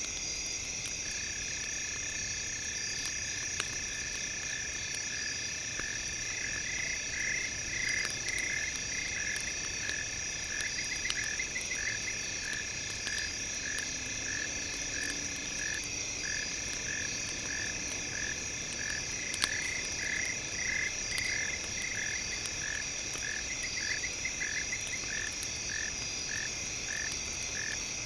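Frogs calling in short, evenly repeated notes, about one and a half a second, with now and then a fast trill. Under them run steady high-pitched tones, with a few faint crackles.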